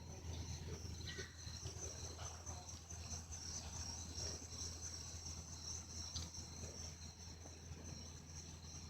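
Steady high-pitched chorus of insects chirping outdoors, with a low steady hum underneath.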